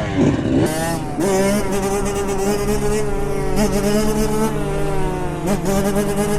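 Small motorcycle engine running at high revs, its pitch dipping briefly and climbing back about three times.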